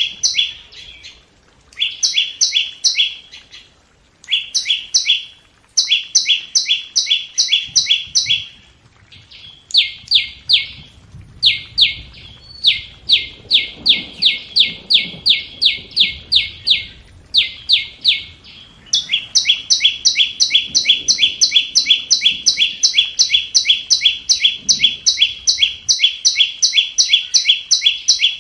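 Flowerpecker decoy call: rapid trains of short, sharp, high chips, about seven or eight a second. They come in bursts of a second or two with short gaps, then run on without a break from about two-thirds of the way in.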